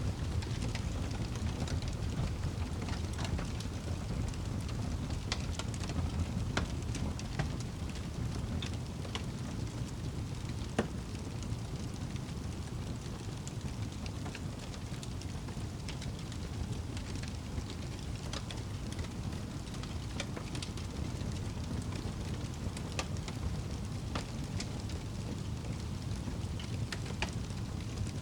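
Campfire burning, with scattered small crackles and one sharper pop about eleven seconds in, over a steady low rumble.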